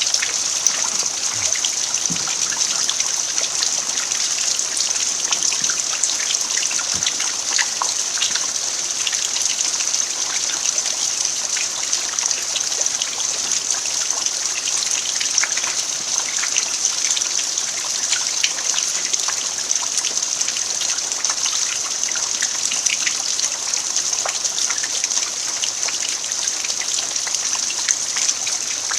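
Steady rain falling on an earthen yard: an even hiss with many small drops ticking through it, unchanging throughout.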